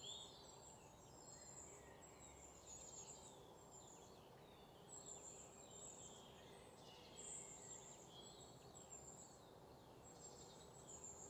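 Faint birds chirping: many short, high calls scattered throughout, over near silence.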